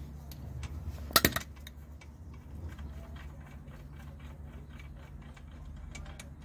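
Metal clinks of a socket wrench on the brake caliper slider bolts: two sharp clinks about a second in, then a run of faint light ticks, over a steady low hum.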